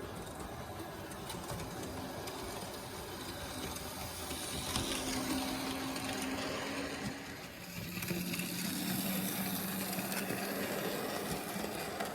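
H0-scale model train running on the layout's track: the small electric locomotive motor hums over a steady rattle of wheels on rail joints, its tone dropping lower about eight seconds in.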